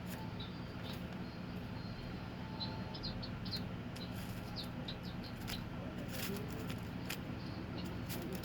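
Small pet bird giving short high chirps, mixed with scattered light clicks and crackles. The bird is pecking at and handling a paper fortune card. A steady low hum sits underneath.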